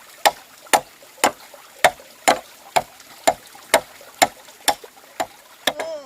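Hand-tool blows on wood, struck steadily about twice a second, each a sharp knock with a short ring.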